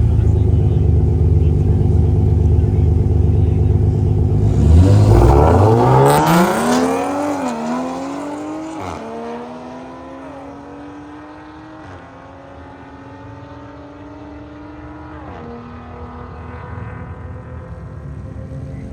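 Car launching down a drag strip. The engine holds a steady rev, then about five seconds in it revs up hard off the line. It climbs through the gears with three shifts, each a sudden drop in pitch, and fades as the car runs away down the track.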